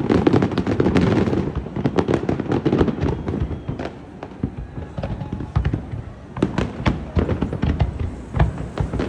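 Fireworks going off at New Year: many sharp bangs and crackles in quick, irregular succession, densest and loudest in the first second or so, then scattered reports for the rest of the time.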